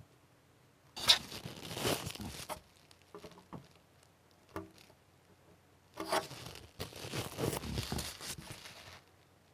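Masking tape being peeled off a painted plastic model hull, in two long ripping pulls with small clicks and handling in between.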